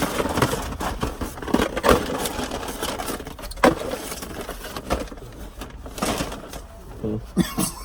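Rustling and crinkling of a paper takeout bag being rummaged through for napkins, with a sharp click a little over three and a half seconds in.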